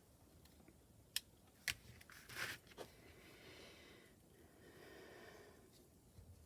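Faint handling of craft materials on a tabletop: two sharp little clicks a second or two in, a short rustle at about two and a half seconds, then soft faint rustling.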